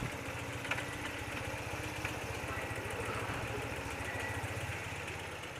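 A 30-year-old BMW motorcycle engine idling, a steady, even low beat with a couple of faint clicks over it.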